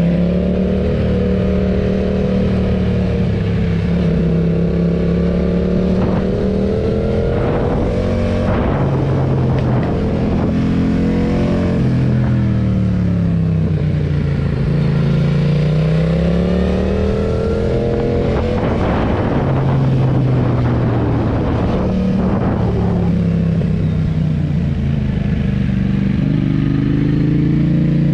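Yamaha MT-07's 689 cc parallel-twin running through a Roadsitalia Double Fire titanium aftermarket exhaust, its pitch rising and falling several times as the revs go up and down.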